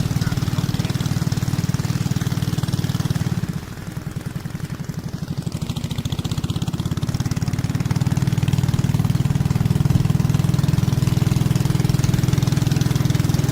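A motor engine running steadily, then dropping to a slower, pulsing idle about three and a half seconds in, and picking up again to a steady run a few seconds later.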